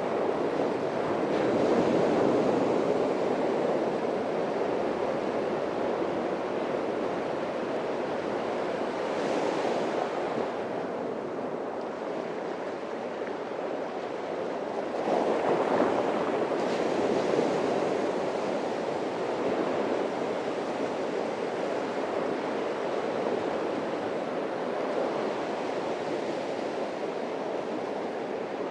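Atlantic surf breaking on a beach: a continuous wash of waves that swells as a wave breaks about two seconds in and again about halfway through, then eases back.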